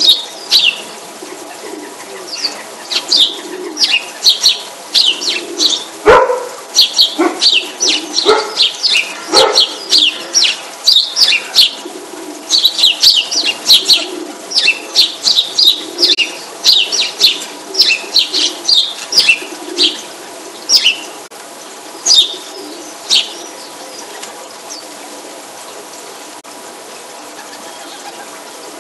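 Birds chirping: rapid, high-pitched chirps, several a second, with a few lower calls among them. The chirping stops a few seconds before the end, leaving only a faint steady background.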